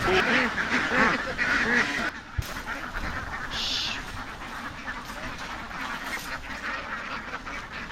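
A large flock of farm ducks quacking, many calls overlapping, loud for about the first two seconds and then dropping suddenly to a quieter chatter.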